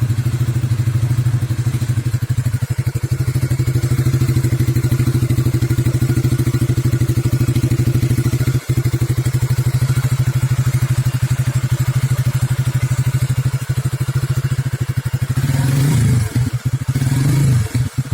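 Honda CB150R's single-cylinder engine running through an aftermarket FU exhaust silencer: a steady idle with an even exhaust beat, then several throttle blips near the end.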